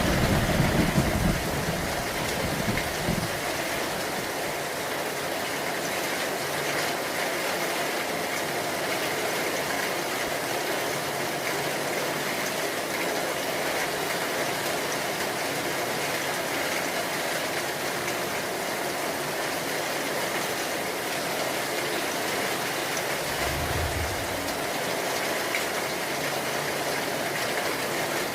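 Steady heavy rain falling. A low rumble of thunder fades out in the first second or so, and another short low rumble comes about three-quarters of the way through.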